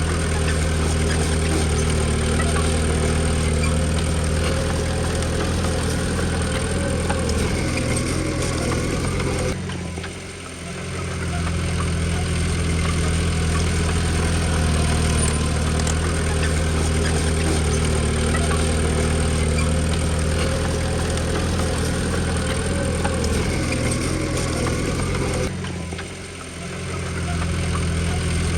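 Diesel engine of heavy earthmoving equipment running steadily. Its sound drops out briefly twice, about ten seconds in and near the end, then comes back up.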